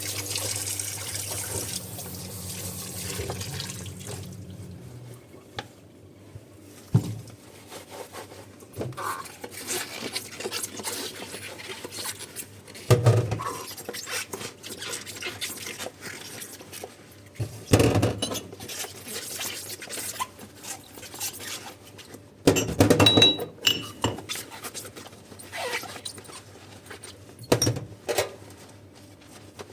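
Kitchen tap running into a sink for the first few seconds, then stopping. After that, dishes knock and clatter against each other and the sink about every five seconds, with small water sounds between.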